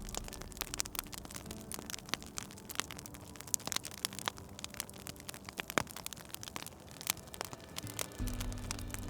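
Wood fire crackling in a fireplace: a dense, uneven run of small pops and snaps, with a couple of sharper cracks.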